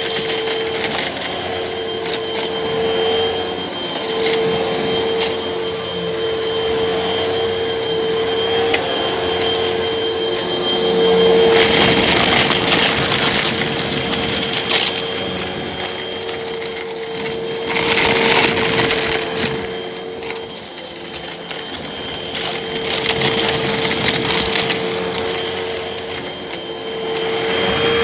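Hoover vacuum cleaner running with a steady motor whine while it sucks up small crunchy debris, which crackles and rattles through the machine. The crunching swells louder twice, about 12 and 18 seconds in.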